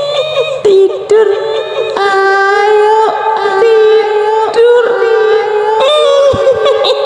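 A high-pitched female voice wailing in long, wavering held notes that step up and down in pitch: the eerie sung wail of a kuntilanak ghost sound.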